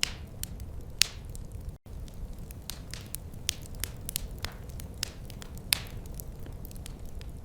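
Wood fire crackling in a fireplace: a low steady rumble under irregular sharp snaps and a few louder pops, with a very short gap in the sound about two seconds in.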